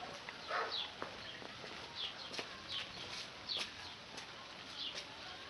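Birds chirping: a run of short, high, downward-sliding chirps repeating about every half second, with one lower call about half a second in.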